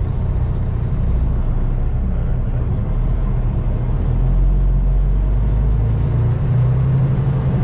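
Semi-truck diesel engine running with a steady low rumble, growing a little louder about four seconds in.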